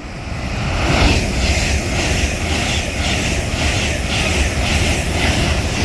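LNER Class 801 Azuma electric train passing through the station: a loud rush of wheel and air noise that builds over the first second and then holds, with a regular beat about twice a second.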